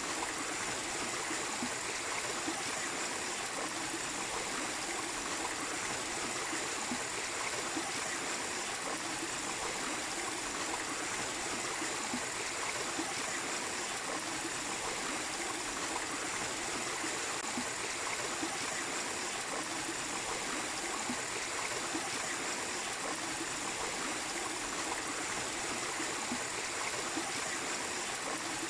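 Mini waterfall running steadily: an even, unbroken rush and splash of falling water.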